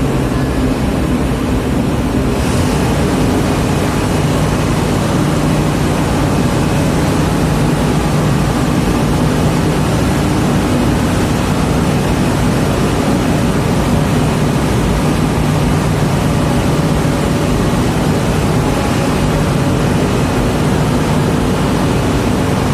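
A large diesel engine running steadily at an even speed, with a constant low hum under a broad rushing noise.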